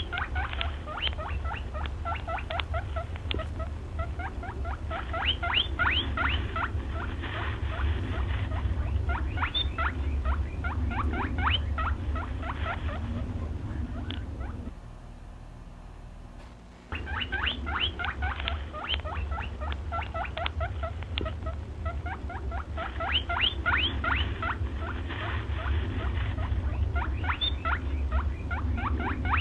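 A small animal squeaking in long, fast runs of short high squeaks, several a second, over a low hum. The squeaking breaks off for about two seconds just past the middle, then starts again.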